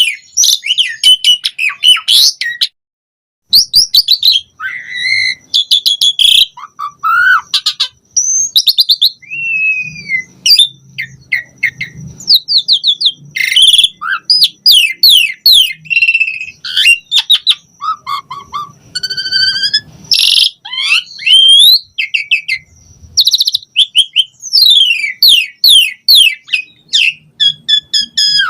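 Asian pied starling (jalak suren) singing a long, varied song of rapid falling whistles, trills and chattering notes, with one short pause about three seconds in.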